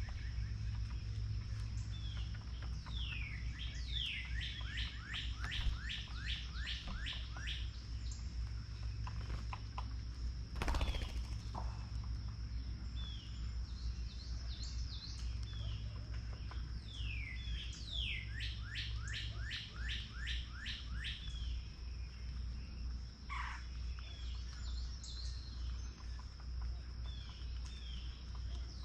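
A songbird singing phrases of quick, evenly repeated down-slurred whistled notes, twice, with scattered short chirps between. A steady high thin tone and a low hum run underneath, and a brief rustle sounds near the middle.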